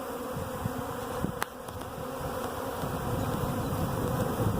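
A honey bee swarm buzzing around a hive box: a steady, even hum that sounds calm, as the bees settle in. A single light click about a second and a half in.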